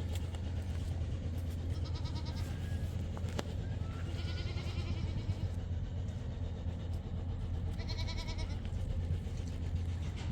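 Goats bleating: three wavering calls a few seconds apart, over a steady low hum.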